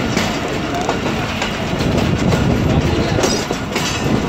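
Passenger train coaches running on a curve: a steady rolling rumble of wheels on the rails with irregular clicks and clunks over the track, the clickety-clack of the train's track sound.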